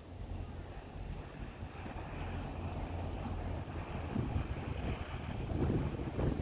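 Fishing boat's engine running with a steady low hum, while wind buffets the microphone in gusts.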